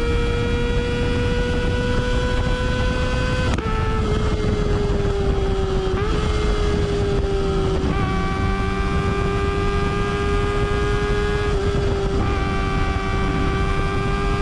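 Kawasaki ZX-25R's 250 cc inline-four running high in the revs through a Yoshimura R77 exhaust while riding. The high, steady exhaust note breaks briefly and shifts in pitch a few times, with a low rumble underneath.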